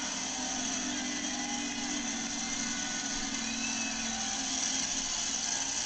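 A big engine running steadily under an even hiss of arena noise; the engine note fades about four seconds in.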